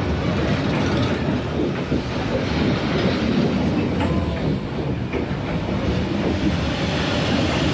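A train passing close by, its wheels rumbling steadily on the rails.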